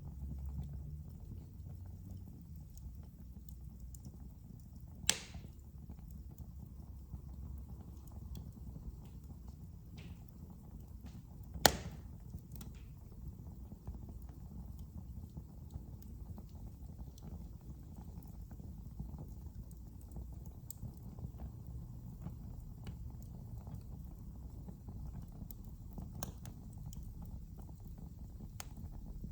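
Wood fire burning in a fireplace: a steady low rumble of flames with scattered small crackles, and two sharp pops of the burning wood, about five seconds in and near twelve seconds in, the second the loudest.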